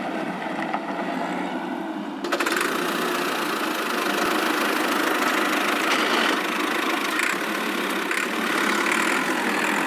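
A vehicle engine running, which turns louder and brighter about two seconds in.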